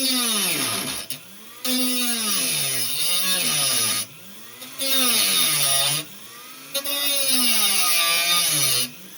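Rotary tool grinding through the sheet-metal wall of a toolbox to finish cutting out a round speaker hole. It runs in four stretches with short breaks, and its whine rises and falls in pitch as it cuts.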